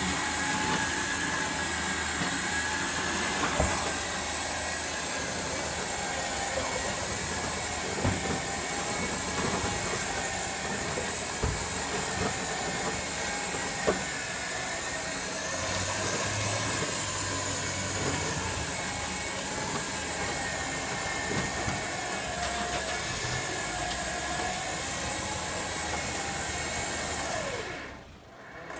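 A heavy vehicle's engine running steadily with a hiss and a wavering whine, with a few sharp knocks. This is plausibly the scrap collector's truck collecting the dead car.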